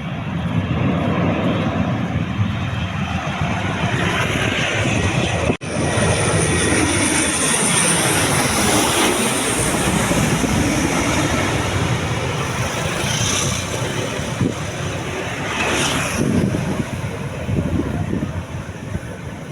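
C-130H Hercules' four Allison T56 turboprop engines passing low overhead on landing approach: a loud, steady engine noise with a high whine, its tone sweeping as the aircraft goes over. There is a very brief cut about five and a half seconds in.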